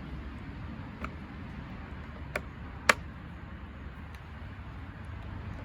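Small metal parts of a slide-hammer puller kit clicking as they are handled: three short sharp clicks about one, two and a half, and three seconds in, the last the loudest, over a low steady rumble.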